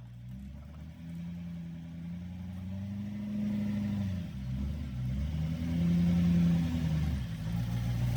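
A vehicle engine revving under load, climbing for a few seconds, easing off about four seconds in, then revving up again.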